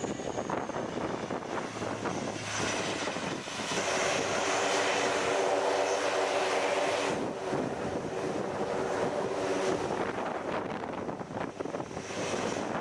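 Aircraft engines as a plane flies past, loudest from about four to seven seconds in, with a steady humming tone that fades out about ten seconds in.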